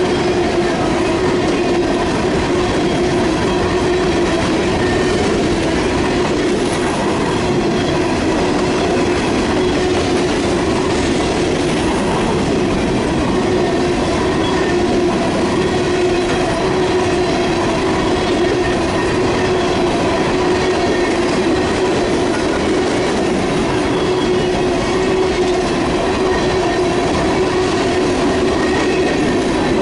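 Freight train cars rolling past at a steady speed, their wheels running on the rails in a continuous, even rumble.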